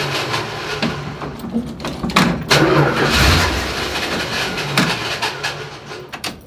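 Old Dodge Dart's engine started on the key, cranking and running, with a few sharp clicks along the way. The sound fades out near the end.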